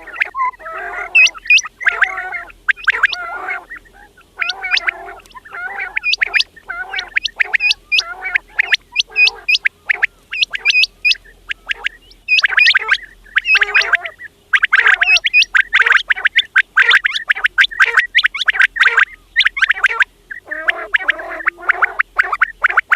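Quails calling over and over in quick phrases: sharp, high, hooked notes alternating with lower, throaty warbling notes, with short pauses between bursts.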